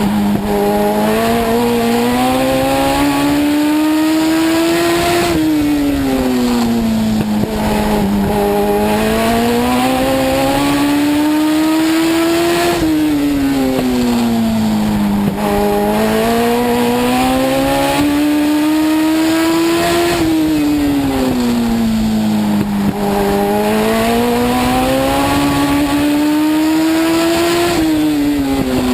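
Legend car's Yamaha motorcycle four-cylinder engine under racing load, heard from inside the car. The pitch climbs steadily for about five seconds, then drops sharply as the throttle comes off for the turn. This repeats four times, about every seven and a half seconds: laps of a short oval.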